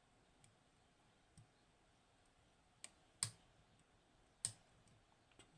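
Scattered small metallic clicks from pick and tension tools working the pins of a Hori Trident high-pin-count lock. Two louder clicks come about three and four and a half seconds in.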